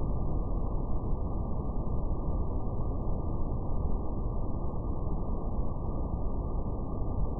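Steady brown noise: a deep, even rumbling hiss, strongest in the lows and with nothing above the low-mids.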